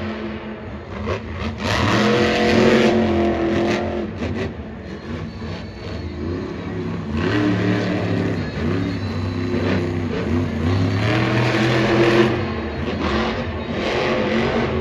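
Monster truck engine revving hard, its pitch climbing and falling over and over as the throttle is worked.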